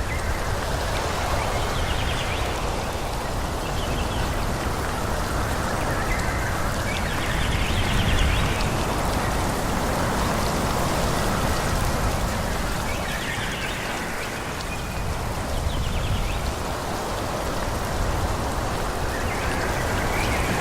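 Wind blowing through forest trees, the leaf rustle rising and falling in gusts every few seconds over a steady low rumble.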